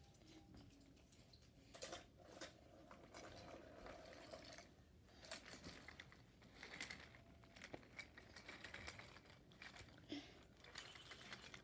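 Near silence, with faint scattered clicks and rustles as of small objects being handled.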